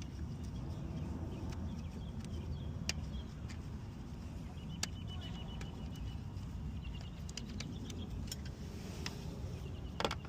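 Hand tools clicking and tapping a few times against engine parts, over a steady low background rumble.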